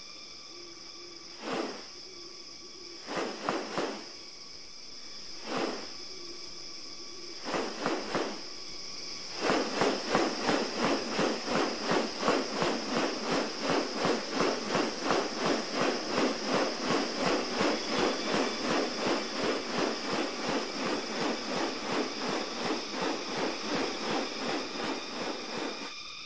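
Rainforest insects hum steadily at a high pitch. Over them an animal gives a few scattered harsh calls, and from about ten seconds in it calls in a long rapid rhythm of about two to three pulses a second.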